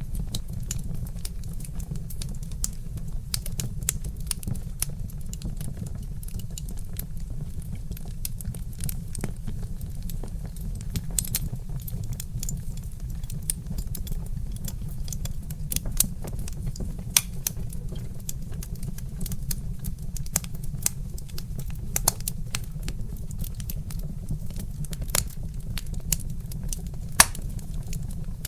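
Log fire crackling with many small sharp pops and a few louder snaps, over a steady low rumble.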